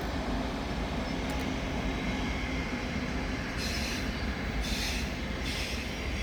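EuroCity train hauled by an ÖBB class 1216 electric locomotive pulling out of the station: steady rolling rumble with a low hum in the first half, then three short high-pitched hissing squeals from the wheels in the second half.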